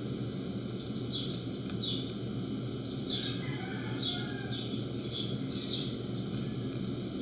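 A small bird chirping: a run of about eight short, falling chirps over a steady low background noise.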